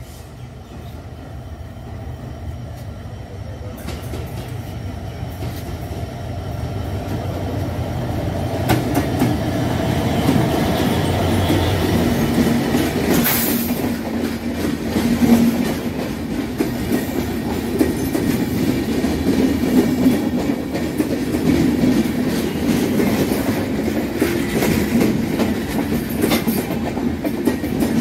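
An EMD GT42CAL diesel-electric locomotive approaches, its engine rumble growing louder, and passes about halfway through. LHB passenger coaches then roll past with a steady clickety-clack of wheels over the rail joints as the train slows for a station. There is a brief high-pitched sound as the locomotive goes by.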